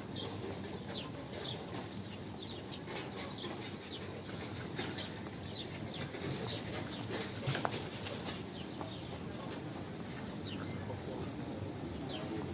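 Busy outdoor promenade ambience: a steady background hubbub with small birds chirping repeatedly over it, and one sharp click about halfway through.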